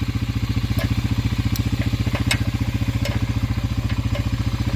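Honda Fourtrax 300's single-cylinder four-stroke engine idling with a steady, even chug, with a few light metallic clinks from the winch hook being unhooked.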